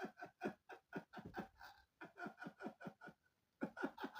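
A man's rapid, breathy exhalations: a string of short pulses at about four a second, with a brief pause about three seconds in, like quiet panting laughter.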